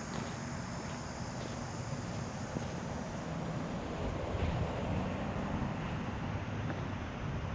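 Steady low rumble with wind noise on the microphone, swelling slightly about four seconds in.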